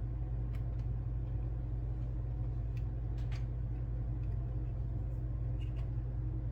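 Steady low hum of room background noise, with a few faint light clicks, such as small plastic parts being handled.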